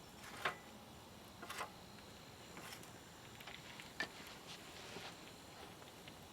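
Campfire crackling faintly, a few sharp pops and clicks spaced irregularly about a second apart.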